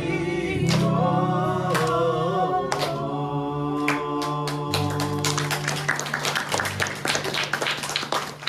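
A song with voices singing together over held low notes, ending. About five seconds in the singing thins out and a dense, rapid patter of sharp clicks takes over.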